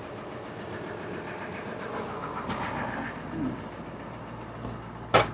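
Truck engine idling steadily just after being started, with a single sharp knock near the end.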